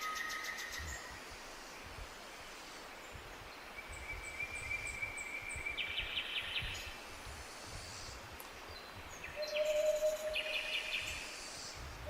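Several wild birds calling in a forest: a held whistled note, a run of short high notes, rapid trills, and a lower steady note near the end, over a faint low wind rumble.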